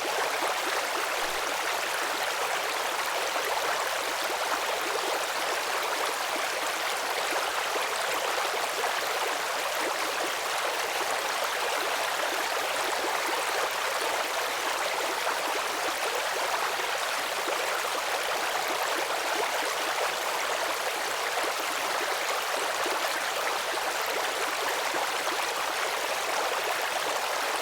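Steady rush of flowing stream water, even and unchanging throughout.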